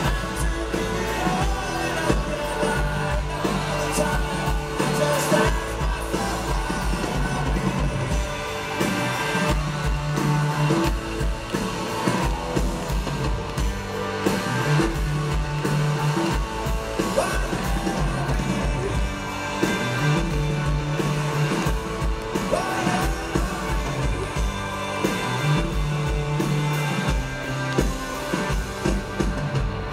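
Live rock band playing, with singing.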